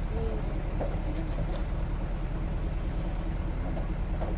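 Motor vehicle engine idling nearby, a steady low rumble.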